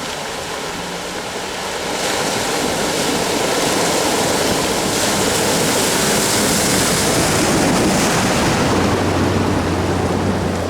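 Off-road 4x4 pushing through a water crossing: a steady rush of splashing water over the engine's low running note, swelling about two seconds in.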